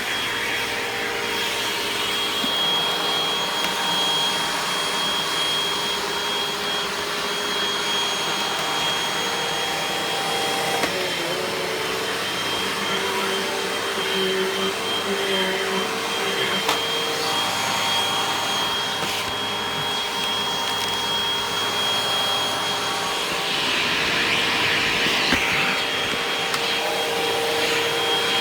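Hoover upright vacuum cleaner running steadily: a continuous rushing noise with a steady high-pitched whine over it, getting a little louder near the end.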